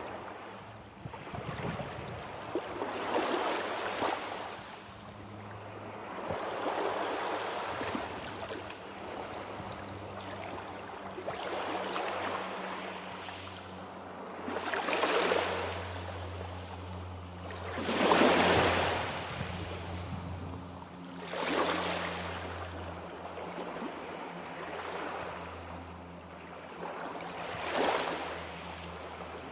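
Sea waves washing onto the shore, one wave breaking every three to four seconds, each swelling and then fading; the loudest comes about eighteen seconds in. A faint low hum lies under the waves.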